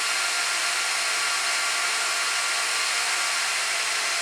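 Cooling fans of a Gigabyte R180-F34 1U rack server running at high speed while the machine boots through POST: a steady, even whoosh of air with faint whining tones.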